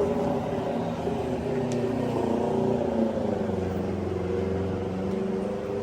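Motor vehicle engines running in street traffic, a steady hum that slowly shifts in pitch, with a single click about two seconds in.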